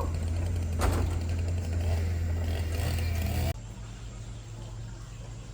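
An engine running with a steady low hum and a single sharp knock about a second in. The hum cuts off suddenly a little past halfway, leaving a quieter background.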